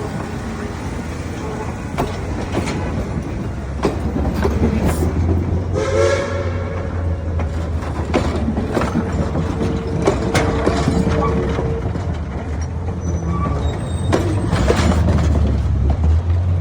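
Train running, with a steady low engine rumble and the clicks and clanks of the cars on the rails. A short horn blast sounds about six seconds in, and a longer steady tone follows from about eight to twelve seconds.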